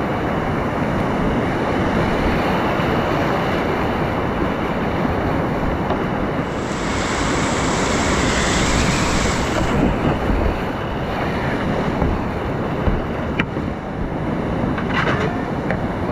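Fast mountain river water rushing steadily through rapids. For a few seconds near the middle it turns brighter and hissier, and a couple of sharp knocks come near the end.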